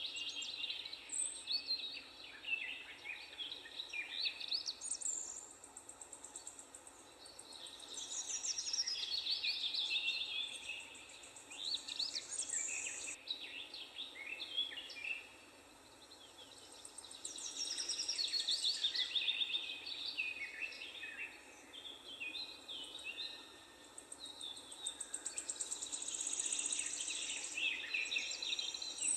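Several songbirds singing and chirping, with rapid trills and short high chirps coming in bouts every few seconds over a faint steady outdoor hum.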